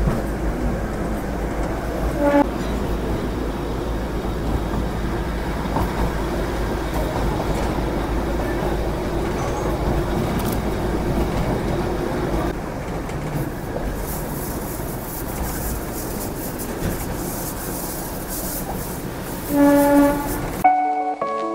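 Darjeeling Himalayan Railway toy train running, heard at an open carriage window as a steady running noise. A short horn toot sounds about two seconds in and a longer horn blast near the end. Music begins just before the end.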